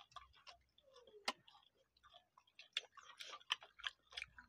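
People chewing pieces of soft rice pitha: quiet, irregular mouth clicks and smacks, coming thicker about three seconds in.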